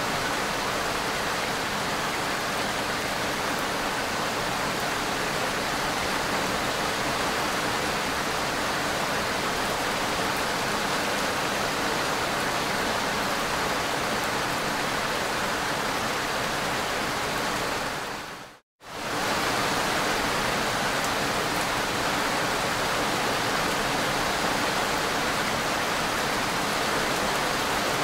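Steady, even hiss of rain-like noise. About two-thirds of the way in it dips to silence for a fraction of a second and then comes straight back at the same level.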